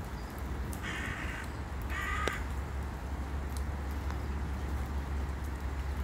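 A bird gives two short, harsh calls in quick succession about a second in, over a steady low rumble.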